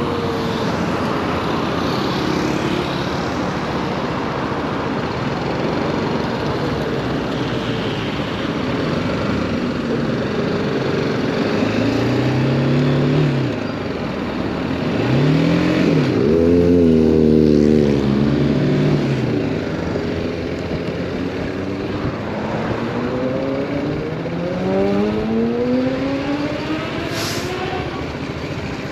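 The 2018 BMW G310R motorcycle's single-cylinder engine revving and accelerating through the gears over steady wind and road noise. Its pitch climbs about halfway in, rises and falls a few times through the loudest stretch just after, and climbs again in several sweeps near the end.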